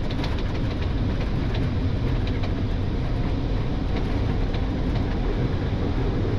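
Steady rumble and rattle inside an Airbus A320neo cockpit as the airliner rolls out along the runway just after touchdown.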